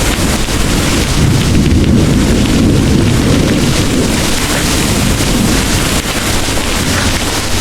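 Heavy rain pouring steadily under a low rolling rumble of distant thunder, which swells for a couple of seconds about a second in.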